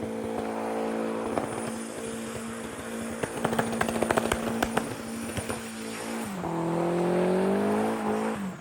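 Turbocharged Mazda MX5 Miata 1.8 four-cylinder engine held at steady high revs, with a rapid cluster of sharp cracks a few seconds in. The revs then drop and climb again before the sound cuts off abruptly near the end.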